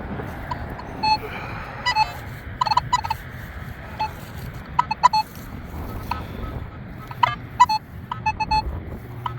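Nokta Legend metal detector giving short, irregular target beeps as the coil is swept over the ground, more of them in the second half, over steady wind rumble on the microphone.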